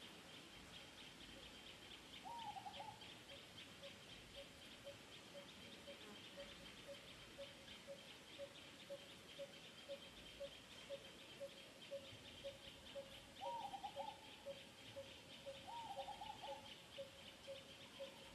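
Faint outdoor ambience: a bird repeats a single low hooting note about twice a second over a steady, pulsing high insect buzz. Three short arched calls break in, one a couple of seconds in and two near the end.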